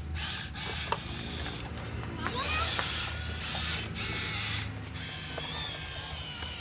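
Radio-controlled Huina 1573 dump truck's electric motor and plastic gearbox whirring in a series of short on-off bursts, as the truck is driven or worked by remote control.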